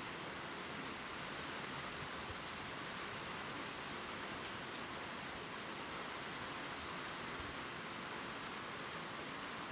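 Gentle rain falling steadily on leaves, an even hiss with a few faint, scattered drop ticks.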